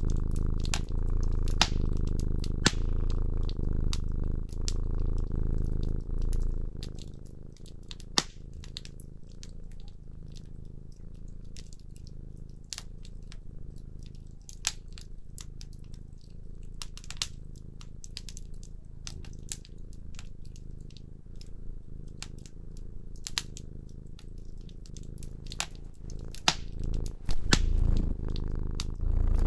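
A cat purring, a low pulsing rumble that is strong for about the first six seconds, softer through the middle and stronger again near the end, over a fireplace fire crackling with frequent sharp pops.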